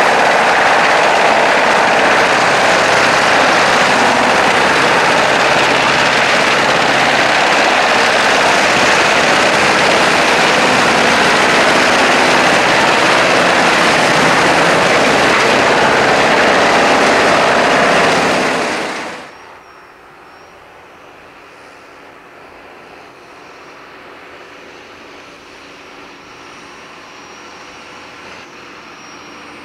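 Greentec 952 Mega wood chipper running loud with a dense, even roar. About two-thirds of the way through the sound drops away sharply to a much quieter, steady machine hum.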